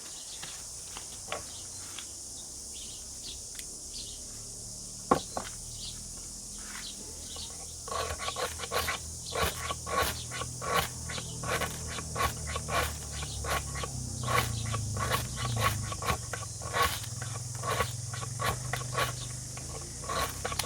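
Metal knife spine scraping in quick repeated strokes, about two a second, from about eight seconds in, each stroke with a faint ring. Before that come a few scattered clicks and one sharp tick.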